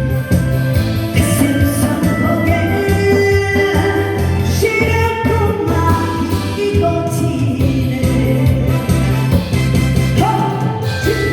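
A song played live: a singer's voice over a recorded backing track with a steady drum beat and heavy bass.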